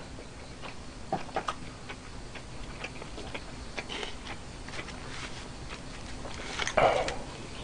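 Close-miked chewing of a mouthful of food, with many small wet clicks. Metal chopsticks reach into a plastic dumpling tray, and there is a louder brief noise about seven seconds in.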